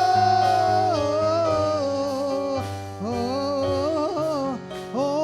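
Gospel worship song: a singer holds a long note, then sings sliding, wavering runs over steady instrumental backing.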